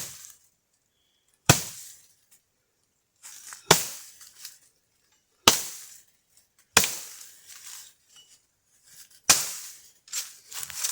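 Axe chopping dry firewood: about seven sharp blows, one every second or two, each with a short rattling tail.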